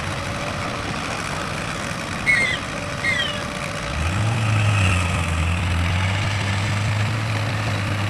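Heavy vehicle engine running. A deeper, steady engine note comes in about halfway through, and two short high squeaks, each falling in pitch, come a little before it.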